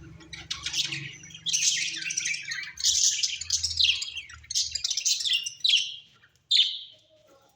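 Small pet parrots chirping and chattering in a rapid run of bright, high calls, which die away near the end.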